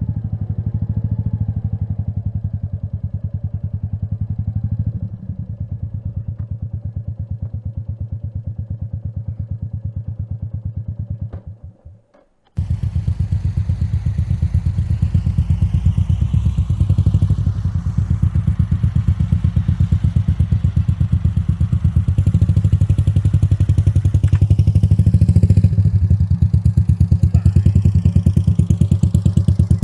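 Royal Enfield Meteor 350's single-cylinder engine running at low speed with a steady pulsing beat. It cuts out suddenly about twelve seconds in and comes back half a second later, now with wind and road hiss over it.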